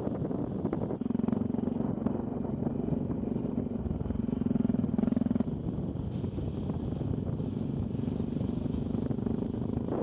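Single-cylinder engine of a Yamaha XT660Z Ténéré motorcycle running on the move, with wind and road rumble over the microphone. The engine note grows louder about four seconds in and eases off again a second or so later.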